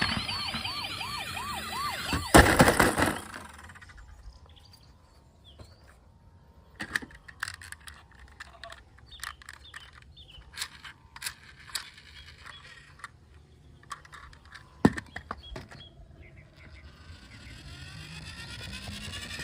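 A toy emergency vehicle's electronic siren warbling rapidly, cut off about two seconds in by a loud plastic clatter. Then scattered clicks and knocks of plastic toys being handled, and near the end another toy's electronic sound effect with rising tones starts up.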